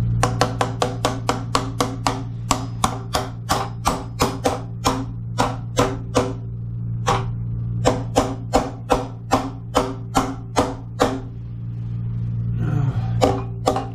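A rapid run of sharp metallic taps or clicks from hand work on plumbing, about three a second, stopping about eleven seconds in, with a couple more near the end, over a steady low hum.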